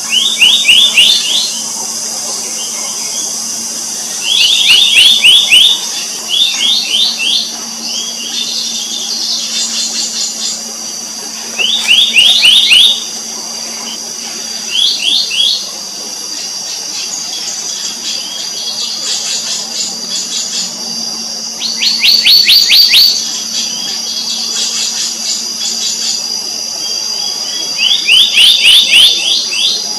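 Black-naped monarch calling: short, rapid runs of sharp, rising high notes about a second long, repeated every few seconds, about eight runs in all. A steady high-pitched drone runs underneath.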